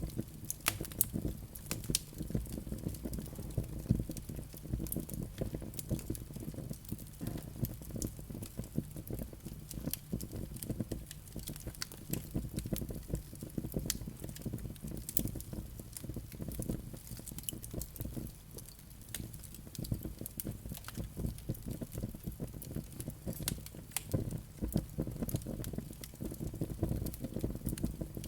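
Wood fire burning in a fireplace, crackling with frequent, irregular sharp pops over a steady low rush of the flames.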